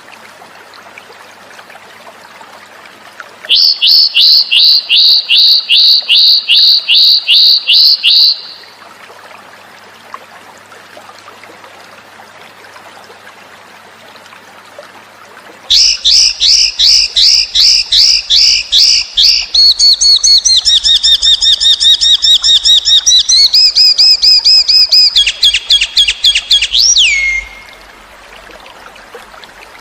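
Cucak cungkok bird song in two long bouts of fast repeated high chirps. The first lasts about five seconds; the second runs about twelve seconds, changes pitch partway and ends in a quick upward sweep. A faint steady trickle of water runs underneath in the gaps.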